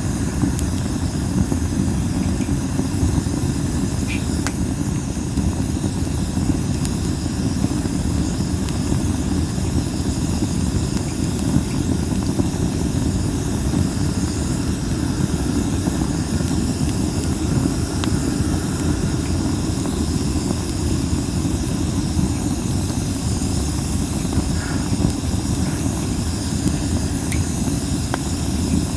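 Wood fire of masaki (Japanese spindle tree) branches burning on a fire disk: a steady hiss with a few sharp crackles here and there, under a heavy low rumble of wind on the microphone.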